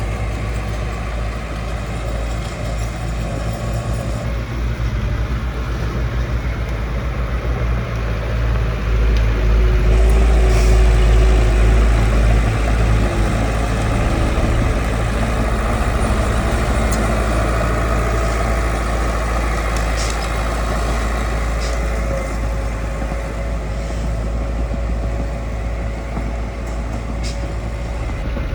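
Heavy diesel engine of earthmoving machinery running steadily with a deep rumble, growing louder for a few seconds about a third of the way in, with a few brief high ticks.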